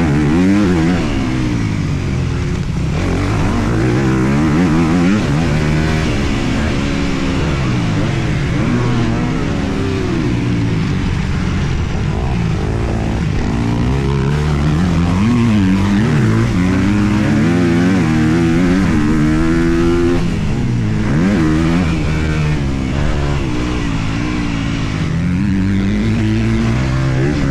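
Honda CRF250R's 250 cc four-stroke single-cylinder engine revving up and down again and again as the bike is ridden hard around a motocross track, heard from the rider's helmet.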